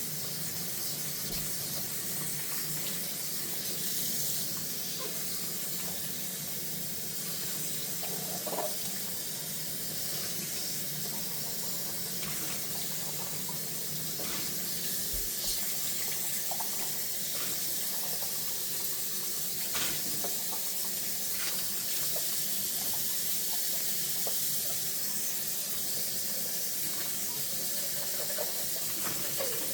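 Kitchen tap running steadily into a sink while dishes are washed, with a few faint clinks and knocks of dishware now and then.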